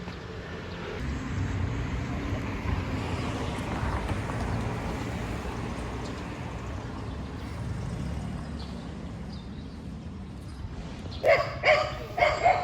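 A dog barking: a quick series of short, sharp yelps near the end, over a steady low background rumble.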